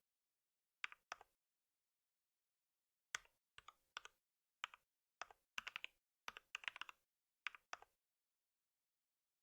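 Computer keyboard typing in short bursts of keystrokes: a few keys about a second in, a pause of about two seconds, then a longer run of typing in quick clusters.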